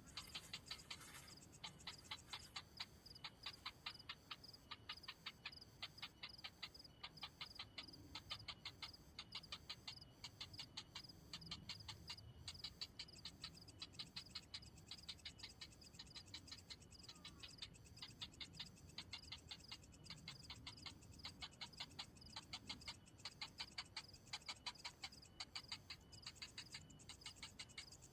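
Faint, rapid ticking calls, several a second in long runs with brief pauses, from a hungry heron chick begging for food.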